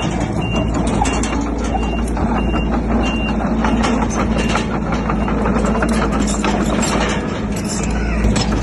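Heavy diesel construction machinery running steadily, with a reversing alarm beeping about twice a second that stops a little over three seconds in. Scattered clanks and knocks sound over the engine.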